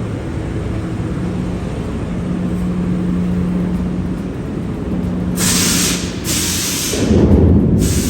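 A truck idling with a steady low hum. About five seconds in come three short bursts of hissing air, with a low rumble between the second and third.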